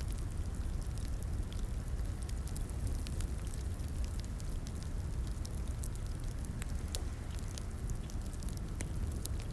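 Crackling fireplace: a steady low rumble of burning logs with frequent sharp pops and snaps at irregular intervals.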